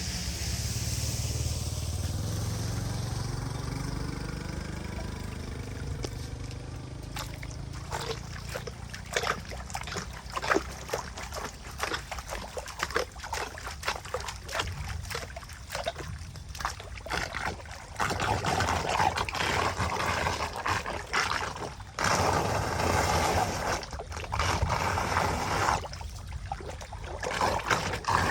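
Water splashing and trickling in irregular bursts, then running steadily in stretches near the end, with a low engine hum fading away over the first few seconds.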